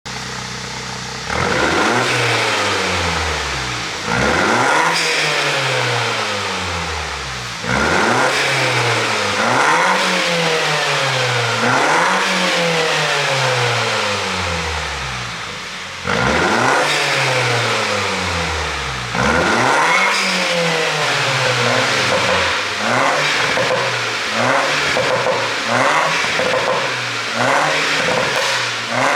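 2018 Mini Cooper S Convertible (F57)'s turbocharged four-cylinder engine revved again and again, each rev dropping back with pops and crackles from the exhaust on the overrun: the sign of a pop-and-crackle tune. From about two-thirds of the way in, the revs become quicker, shorter blips.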